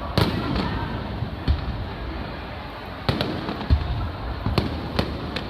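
Aerial fireworks shells bursting overhead: about six sharp bangs at irregular intervals, several in quick succession in the second half, over continuous background noise.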